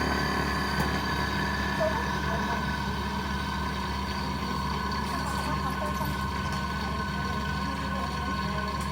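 A steady machine hum with several constant whining tones that do not change in pitch or level.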